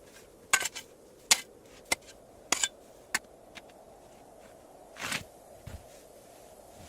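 A run of sharp, irregular knocks and clicks, about six in the first three seconds, then a duller knock about five seconds in, over a faint steady hiss.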